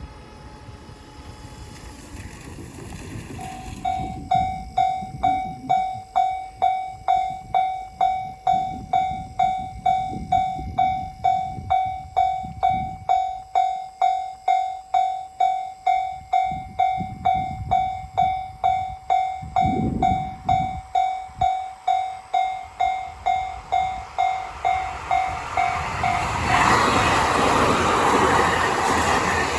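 Railway level-crossing alarm ringing steadily about twice a second as a train approaches with a growing rumble. Near the end the train passes close by in a loud rush of wheel and car noise that drowns out the bell.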